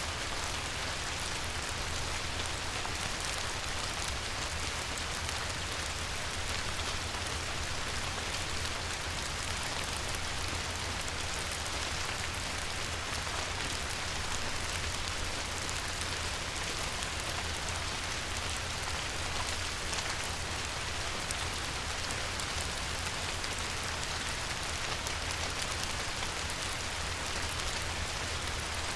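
Steady light rain pattering on a river's surface, a dense even hiss of many small drop ticks.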